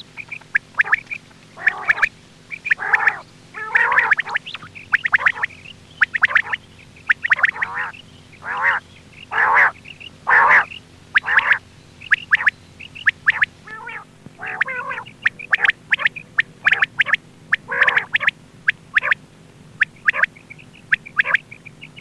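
Quail calling over and over in short, rapid calls, several a second with short gaps, as played to lure quail for hunting. A faint steady hum lies underneath.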